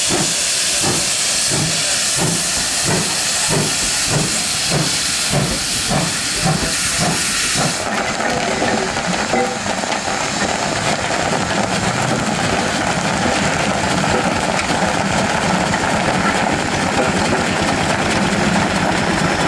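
Steam locomotive working, its exhaust chuffing about twice a second over a loud hiss of steam. About eight seconds in the chuffing gives way abruptly to a steady hiss and rumble.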